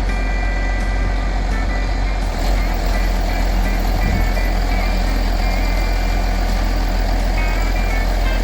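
Heavy truck engine running steadily: a constant low rumble with faint steady tones above it.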